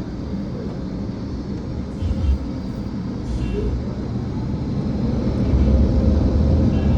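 Steady low vehicle rumble, growing louder about five seconds in.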